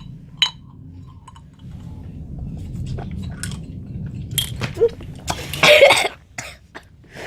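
People drinking from marble-sealed soda bottles, with a few small glass clicks and clinks, then a loud cough about six seconds in.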